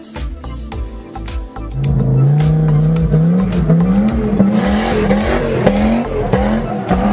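Background music with a ticking beat, then about two seconds in the 1993 Audi S4's turbocharged inline-five engine comes in loud, its pitch climbing in steps as it revs up and then holding at high revs.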